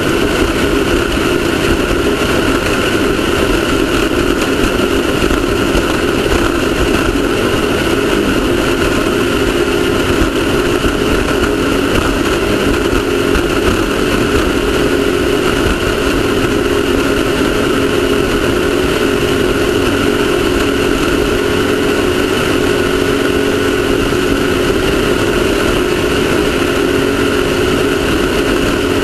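Off-road race car's engine running at a steady pitch throughout, over a constant rushing noise.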